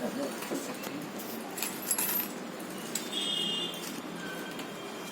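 Light metallic clinks and rattles of tools and parts being handled during a washing-machine drum repair, with a few sharp clicks scattered through.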